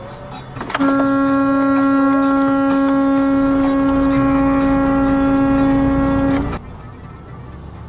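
A vehicle horn held in one long steady blast of about six seconds, a single low note that starts about a second in and cuts off abruptly.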